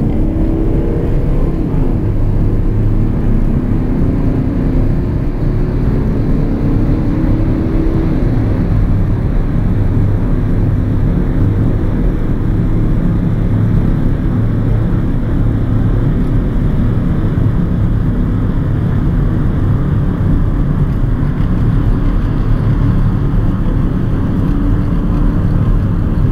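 Inside the cabin of a 2013 Mercedes-Benz C 200 CDI, its 2.1-litre four-cylinder diesel accelerating hard from about 85 km/h, the engine note rising in pitch over the first eight seconds or so. It then settles into a steady drone of engine, tyres and wind at about 150 km/h.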